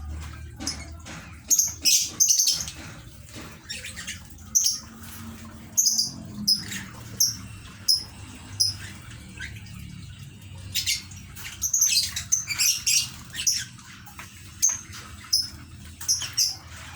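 Pet lovebirds chirping: short, high, sharp calls repeated every second or so, coming in a quicker run a little past the middle.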